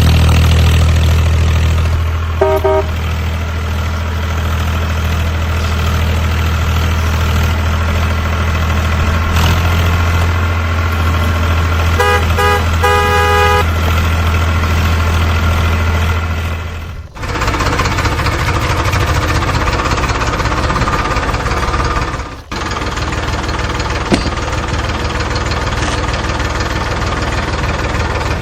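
A vehicle engine running steadily with a deep hum. A horn honks briefly near the start, then a quick run of short honks comes midway. The engine sound switches abruptly twice in the second half and becomes rougher.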